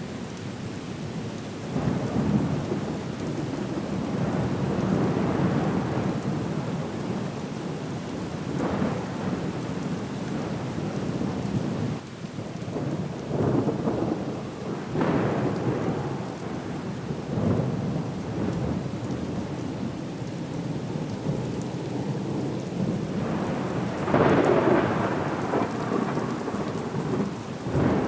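Storm soundscape: steady rain with rumbles of thunder swelling up and fading every few seconds, the strongest near the end.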